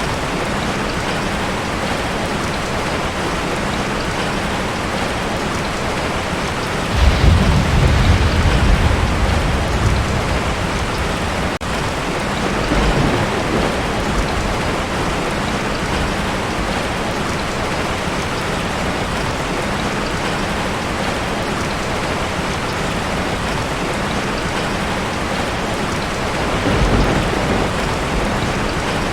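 Heavy rain drumming steadily on a tin roof, with a loud rumble of thunder about a quarter of the way in that fades over several seconds, a fainter rumble soon after, and another near the end.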